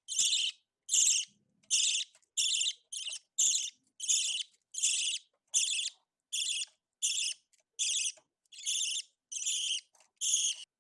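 A young budgerigar calling over and over: a run of about sixteen short, raspy, hissing calls, roughly one every 0.6 seconds.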